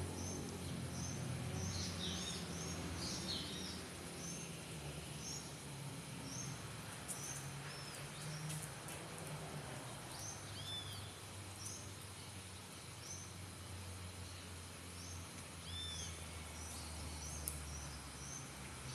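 Outdoor ambience of small birds chirping: short high chirps repeated in quick series, busiest in the first few seconds, with a few arched whistled notes later, over a low steady hum.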